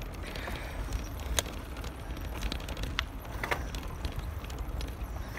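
Bicycle being ridden over rough ground, heard from a phone clamped to the handlebars: a steady low rumble of wind and road on the microphone with scattered rattling clicks from the bike and mount, the sharpest about a second and a half in and around three seconds in.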